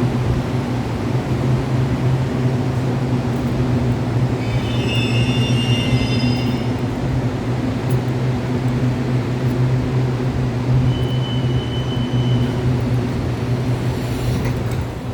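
Taiwan Railways local commuter train running, heard from inside the carriage: a steady low hum over a rumble, with a brief high whine about five seconds in and a fainter one near the twelve-second mark.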